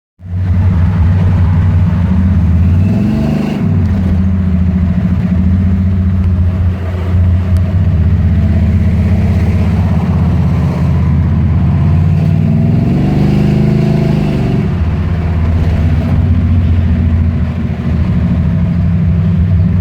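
Stage-1 Buick 455 V8 with a TA290-08H camshaft running in a 1987 Buick Regal-T. Its revs rise and fall back twice, about three seconds in and again around two-thirds of the way through.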